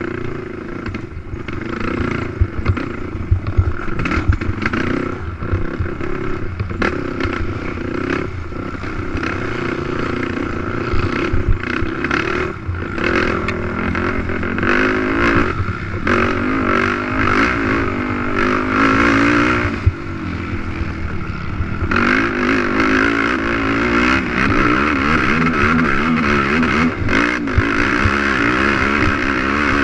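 A racing quad's engine heard up close on board, revving up and falling back again and again at race pace, with a drop in revs about two-thirds of the way through before it climbs again. Sharp knocks and clatter run through it.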